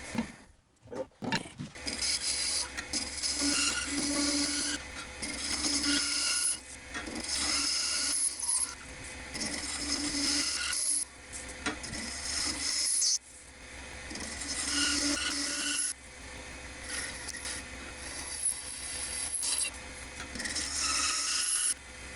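A turning tool scraping a clear acrylic workpiece spinning on a wood lathe: a continuous rasping hiss in passes, cutting off briefly about a second in and again near the middle, over the steady low hum of the lathe.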